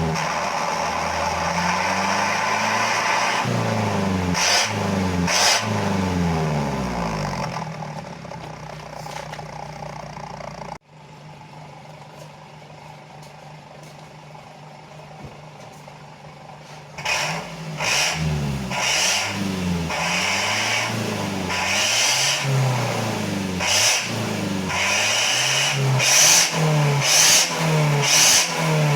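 Suzuki APV van's exhaust with its engine being revved repeatedly, the pitch rising and falling with each throttle blip. About 11 s in it drops suddenly to a quieter steady idle, and from about 17 s the revs pick up again in quick, short blips.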